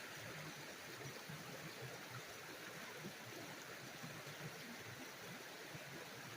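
Small stream running, a steady, even rush of flowing water.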